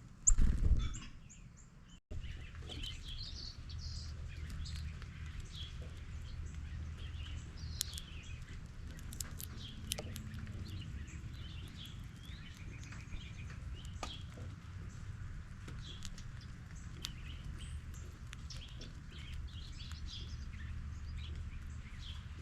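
Several songbirds chirping and calling, with short high calls scattered throughout over a steady low rumble. A loud low thump in the first second is the loudest sound.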